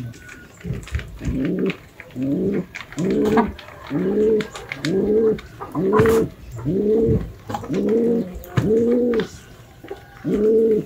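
A bird calling over and over: a low, drawn-out, arching call about once a second, with faint clicks in between.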